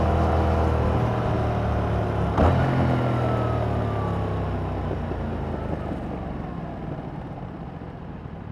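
2021 Yamaha MT-07's parallel-twin engine running through its stock exhaust, with one sharp click about two and a half seconds in. After the click the engine note falls in pitch and grows quieter as the bike slows.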